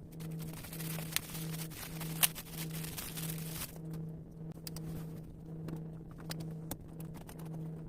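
Small in-car mini electric fan running with a steady motor hum that dips briefly about twice a second. A hiss covers the first few seconds, and scattered clicks are heard.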